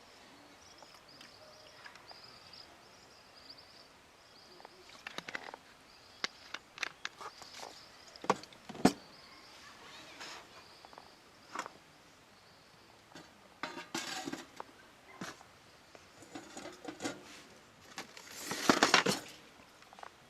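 Scattered clicks and knocks with bouts of rustling, the loudest about 18 to 19 seconds in.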